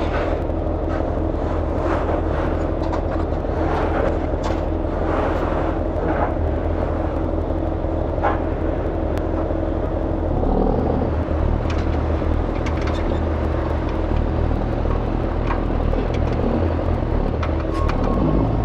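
Kenworth C500 truck's diesel engine running steadily, with scattered clicks and rattles; the engine note changes about ten seconds in. A steady high beeping starts near the end.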